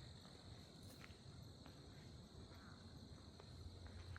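Faint, steady insect chorus: an even high-pitched trill, with a few faint ticks.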